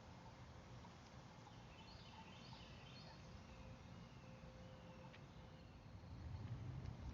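Faint outdoor ambience with a few quiet songbird notes: a short chirping cluster about two to three seconds in, then some soft sliding notes. A low rumble swells near the end.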